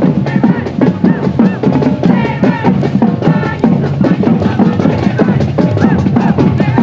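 Marching band playing, with the drums prominent: snare and bass drums keeping a steady, dense beat.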